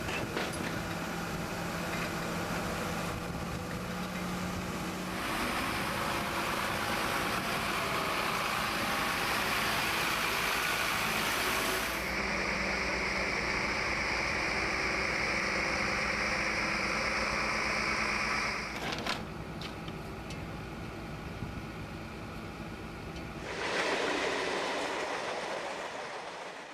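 Engine of a road-rail catenary maintenance truck running steadily, with a surging noise over it that shifts several times and swells near the end.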